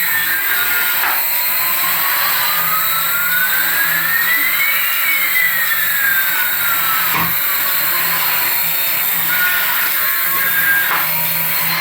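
Small electric motor of a battery radio-control toy whirring steadily, with a high whine that slowly rises and falls.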